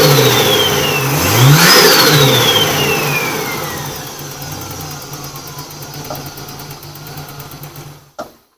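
Nissan RB30 straight-six engine given a sharp rev about a second and a half in, then its note sinking slowly back down for several seconds before the sound cuts off near the end. It is running smoothly with the misfire gone, which the owner puts down to a dirty distributor that he has just cleaned.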